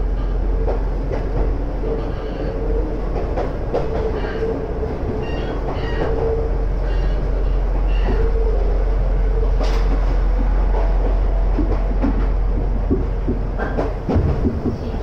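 Running noise of an Iga Railway electric train, a converted ex-Tokyu car, heard from inside the cabin. There is a steady low rumble with a constant hum above it and scattered wheel clicks, with a short cluster of rail-joint knocks near the end.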